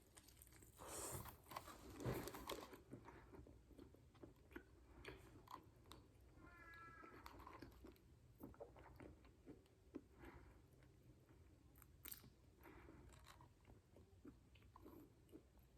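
Faint close-up chewing and mouth clicks of a person eating a fried chicken sandwich on glazed-donut buns. There is a short high-pitched squeak about seven seconds in.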